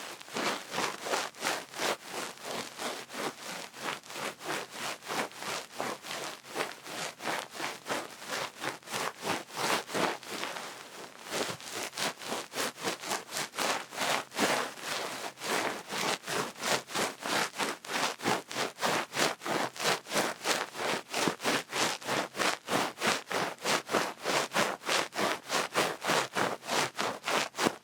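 Duck-feather ear pick brushing and scratching in an ear, in quick, even strokes of about three a second, with a brief pause about ten seconds in.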